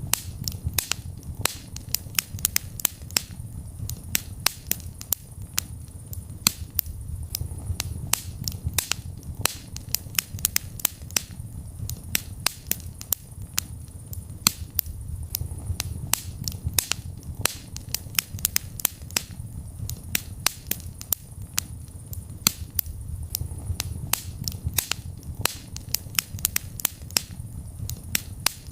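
Wood fire in a fireplace, crackling and popping: many sharp snaps a second, irregular and of varying loudness, over a low steady rumble of the flames.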